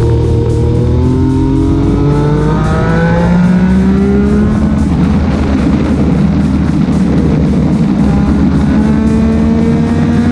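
A motorcycle engine accelerating, its pitch climbing slowly over several seconds and rising again near the end, with wind rush and background music.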